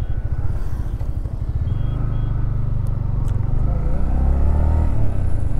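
Yamaha MT-15 V2's single-cylinder engine running as the motorcycle rides off and picks up speed, its sound growing steadily louder.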